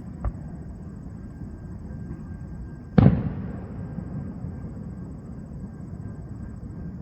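A firework shell bursting with one loud boom about three seconds in, its echo dying away over about a second. A smaller sharp pop comes near the start, over a steady low rumble.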